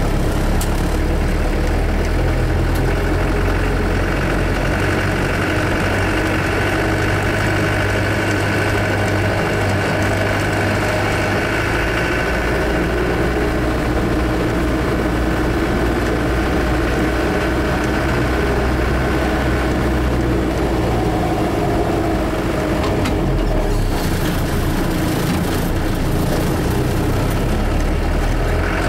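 Land Rover Series IIA diesel engine running steadily under way across rough ground, heard from inside the cab. A steady high whine rides over the low engine drone for much of the time.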